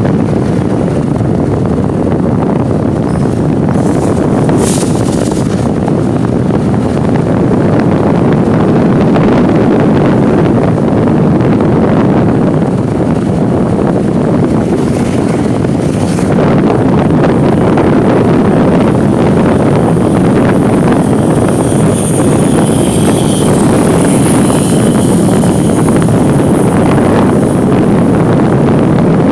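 Wind buffeting the microphone on a moving motorbike, over steady engine and road noise, with a few brief higher-pitched sounds in the traffic.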